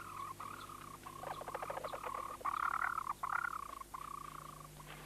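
Red-and-yellow barbets calling: a buzzy, churring call held at one pitch and broken by short gaps, louder about halfway through.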